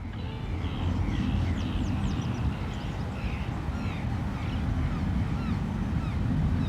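Outdoor ambience: many birds calling with short chirps and quick falling whistles, over a steady low rushing noise.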